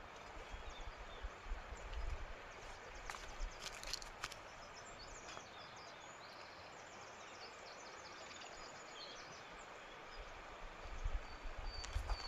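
Outdoor ambience: a steady background hiss with small birds chirping in short, high calls, mostly through the middle. There are scattered low thumps near the start and end, and a few sharp clicks about three to four seconds in.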